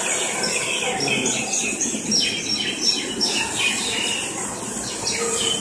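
Many small birds chirping busily, short overlapping chirps repeating throughout, over a steady low background noise.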